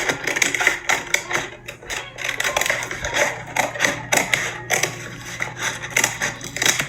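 Scissors cutting around the inside of a paper plate: a quick, irregular run of snips and crackles of the stiff paper.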